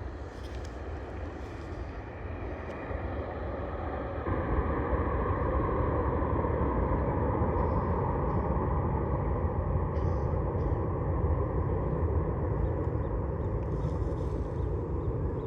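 Boeing 777-300 twin jet engines at takeoff thrust, a steady rumbling roar that grows louder about four seconds in.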